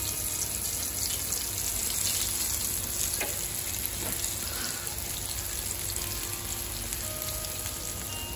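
Seafood coated in rice flour frying in hot oil in a pan, giving a steady sizzle.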